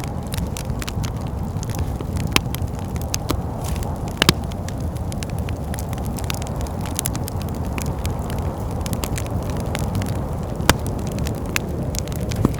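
Wood fire in a fireplace crackling with many sharp little clicks and a few louder pops, the loudest about four seconds in, over a steady low rumble of wind.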